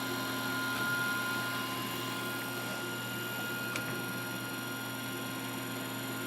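Steady electrical hum with several constant high-pitched whines, and one faint tick a little past the middle.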